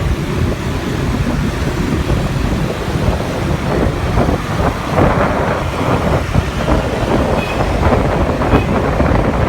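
Riding on a motorcycle taxi: steady rumble of the motorbike and road, with wind buffeting the microphone and surrounding traffic.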